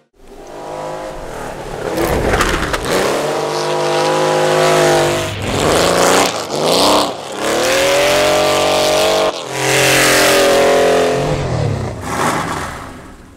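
Porsche 911 rally car's air-cooled flat-six revving hard as it drives on snow, the pitch climbing in several runs with drops between them at the gear changes. It comes in just after the start and fades near the end.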